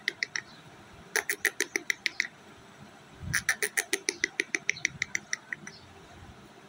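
Indian ringneck parakeet calling in rapid runs of short, sharp notes, about eight a second: a brief tail at the start, a bout of about a second, and a longer bout of over two seconds.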